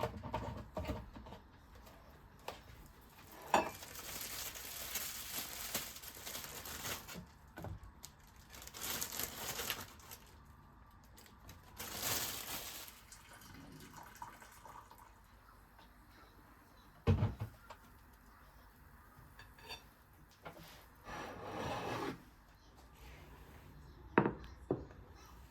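Kitchen work: several short runs of hissing, like water from a tap or pouring, with a few sharp knocks of dishes or utensils in between.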